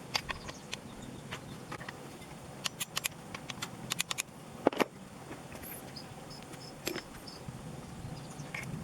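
Scattered sharp clicks and light taps of hand tools and small parts being handled, with a quick run of clicks around the middle and a louder knock just after, over a low steady hum.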